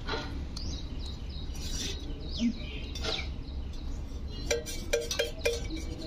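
Birds chirping in short, quick falling notes, mixed with sharp clicks, and four short low notes in a row a little past the middle, over a steady low hum.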